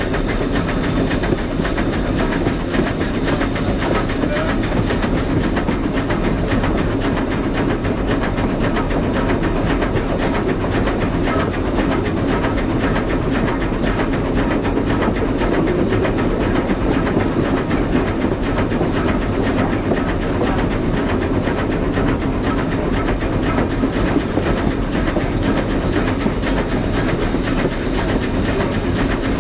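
Columbia River Belt 2-4-4-2 #7 steam locomotive and its train running steadily, with dense, unbroken rolling noise of the cars on the rails, heard from aboard an open observation car.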